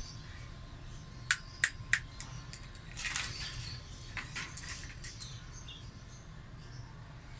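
Green parrot making short, sharp high sounds: three quick ones a little over a second in, a brief rougher burst around three seconds, then a few more short ones.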